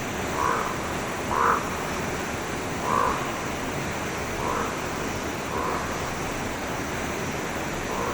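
Forest stream flowing steadily, with an animal giving six short calls at uneven intervals over the water, the second call the loudest.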